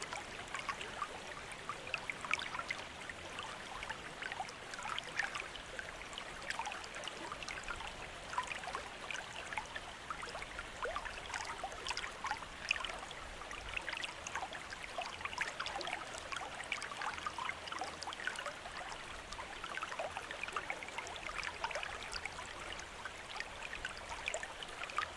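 Water from a bamboo fountain trickling and splashing steadily, a continuous patter of small splashes with no pauses.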